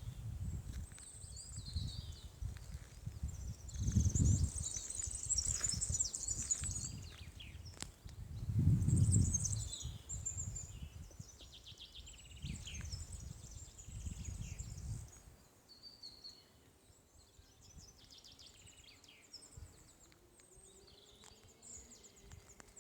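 Several songbirds singing and calling in a mountain beech forest, with quick high chirps and trills throughout. Low rumbles on the microphone, loudest about 4 and 9 seconds in, die away after about fifteen seconds, leaving the birds more clearly heard.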